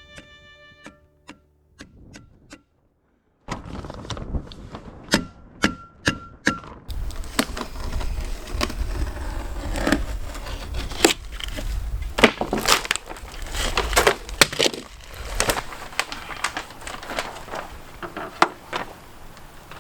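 Strong wind buffeting the microphone, with many sharp knocks and crackles through it, from stapling and handling plastic vapour barrier in the gale. It starts a few seconds in and is heavier from about seven seconds on.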